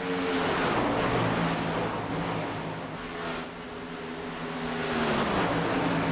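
Racing trucks' engines running at speed past the microphone, with a loud roar of engine and road noise. The engine note falls about five seconds in as a truck goes by.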